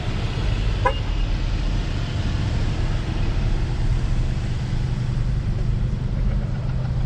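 A car engine running with a steady low rumble, with one brief rising chirp about a second in.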